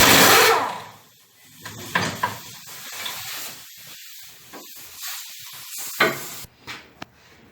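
A loud hiss lasting about a second, then scattered light knocks and clatter, with a second, shorter hiss about five seconds in.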